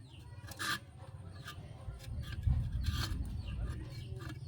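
Chickens clucking a few times over a steady low rumble that grows louder about two seconds in.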